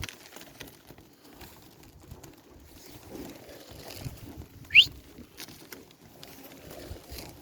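Young pigeons cooing softly, with a few wing flaps and a low rumble in the background. About five seconds in, one short, loud rising whistle cuts through.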